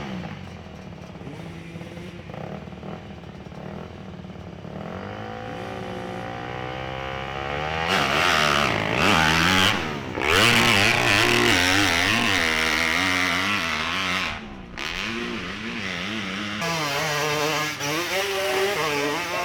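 Motorcycle engine revving up, its pitch climbing and then holding at high revs with the throttle wavering, cutting out briefly about fourteen and a half seconds in before it picks up again.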